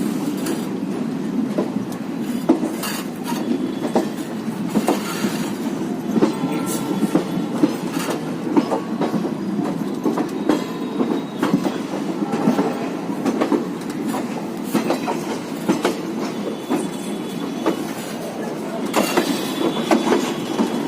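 Passenger express train running along the track, heard from on board: a steady rumble of the coaches with irregular clicking of wheels over rail joints, and a few brief high wheel squeals, one near the end.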